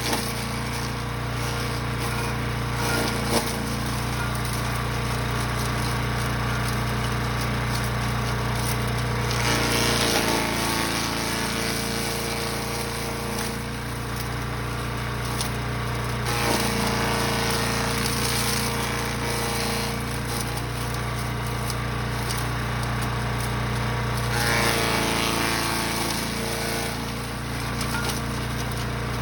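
Brush Master 3-in-1 gas-engine wood chipper/shredder running steadily. Three times, about ten seconds in, near the middle and near the end, it gets louder and rougher as material is fed through and shredded, and the engine note drops under the load before it recovers.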